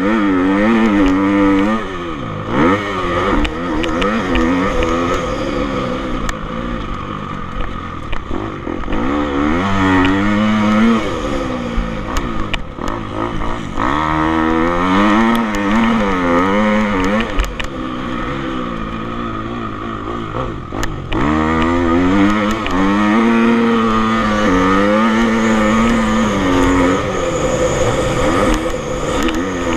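Motocross bike engines revving hard and backing off over and over as they ride the track, pitch climbing and dropping every second or so.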